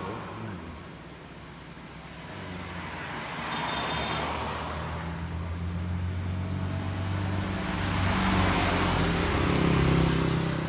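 Electric scooter motor running with a steady low hum and a scraping, grating noise, growing louder toward the end. The owner takes the noise for something metal rubbing inside the motor.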